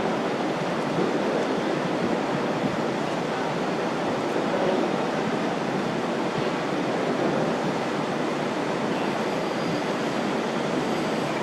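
Steady rushing noise of wind and water from a fast catamaran ferry under way, even and unbroken.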